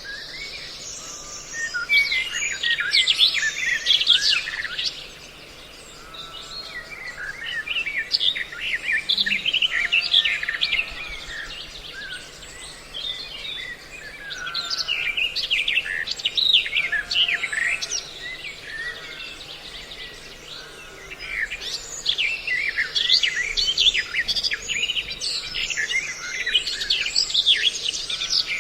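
Many small songbirds chirping and calling together, a mixed bird-call lure recording, in busy bursts of quick chirps and trills with short lulls between.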